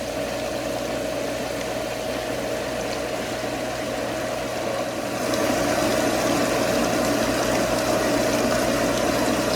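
Swimming pool pump motor running steadily, a constant hum with a steady whining tone over the rush of water through it; it gets louder about five seconds in.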